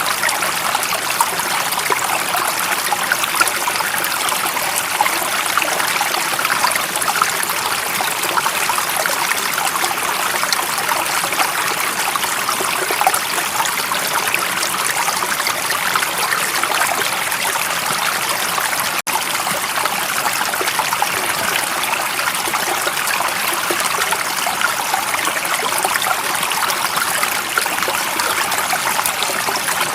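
Stream water running and trickling steadily, an even splashing rush with little low end. A split-second break in the sound comes about two-thirds of the way through.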